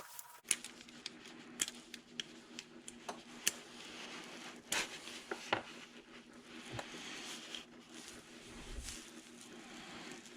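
Irregular light clicks and taps of hand tools and small pump parts being handled, with a few louder knocks, over a steady low hum.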